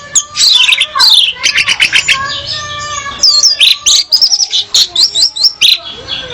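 Orange-headed thrush, billed as a female, singing a fast varied run of whistled phrases, quick repeated chips and rising and falling notes with hardly a pause.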